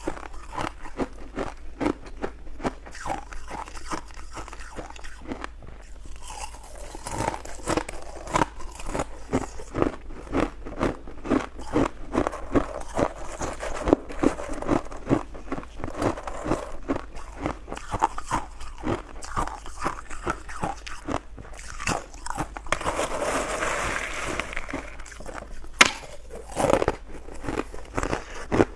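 Ice being bitten and chewed: a steady run of sharp crunches, several a second, thickening into denser crunching for a couple of seconds about three-quarters of the way through.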